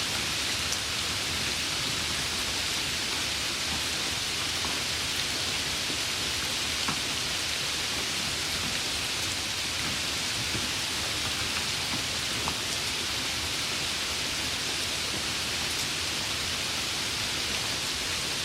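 Steady rain falling, an even hiss with the odd louder drop tick.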